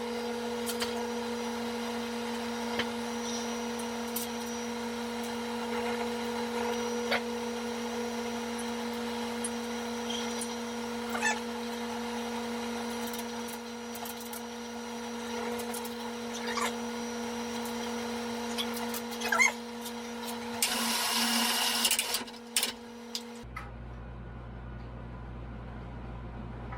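Electric lift motor humming steadily as it raises a heavy wood blank, with scattered clicks and knocks from the strap and load. A short rushing noise comes about 21 seconds in, and the motor cuts off about 23 seconds in.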